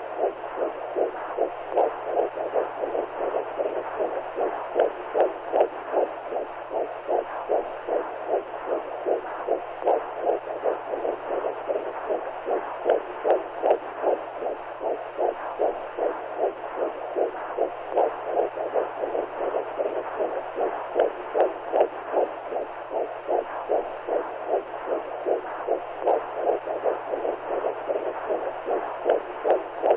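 Womb sound, as a baby hears it inside the mother: a steady run of rhythmic whooshing pulses like a heartbeat and blood flow, over a constant low hum. It is played as white noise to soothe a newborn to sleep.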